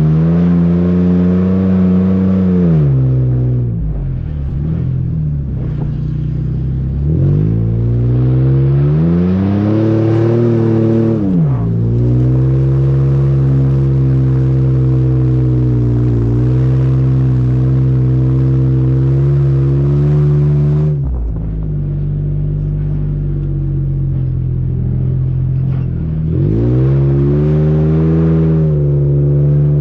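Nissan VQ40DE 4.0-litre V6 of a 2012 Xterra pulling and revving through its gears. The engine pitch rises and falls several times, with a long steady stretch in the middle, then drops and climbs again near the end.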